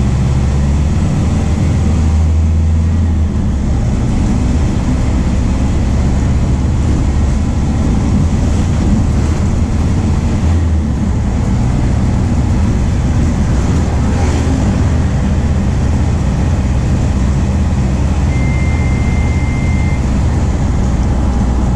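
MAN D0834 four-cylinder diesel engine of a VW 17.230 OD bus running steadily under way, its low hum shifting a little a few times. A short steady beep sounds over it near the end.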